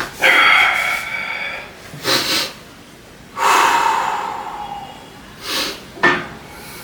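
A person breathing hard from exertion during weight training, with several forceful exhales and gasps a second or two apart.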